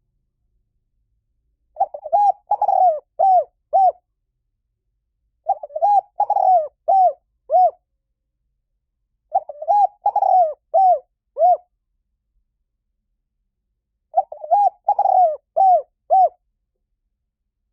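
Spotted dove cooing: four phrases of six or seven short, arching coos each, one phrase about every four seconds, with silence between.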